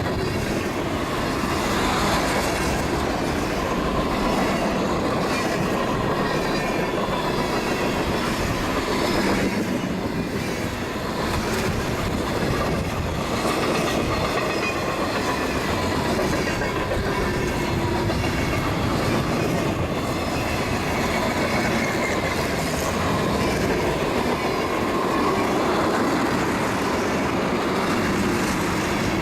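Manifest freight train rolling past steadily, its wheels clattering on the rails, with a thin wheel squeal at times.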